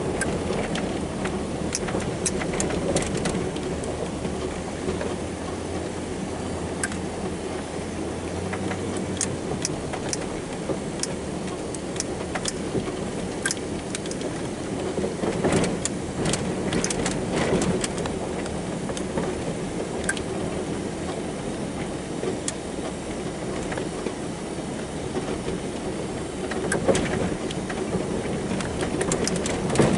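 An engine running steadily, with scattered clicks and rattles over it.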